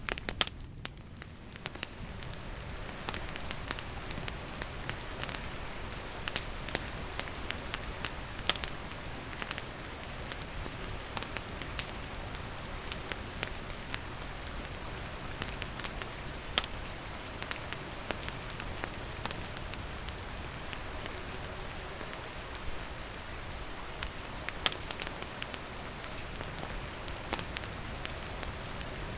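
Steady rain falling, mixed with a wood campfire crackling, with frequent sharp pops and snaps scattered through it.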